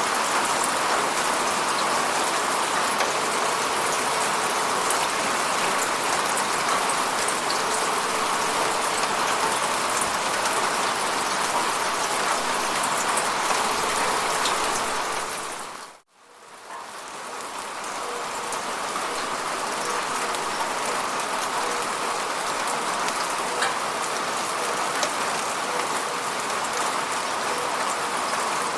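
Steady rainfall, an even hiss of many drops. Just after halfway it fades out to near silence for a moment, then fades back in over a couple of seconds.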